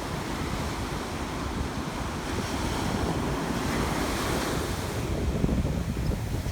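Ocean surf washing onto a beach, one wave's rush swelling and easing off in the middle, with wind buffeting the microphone in low gusts.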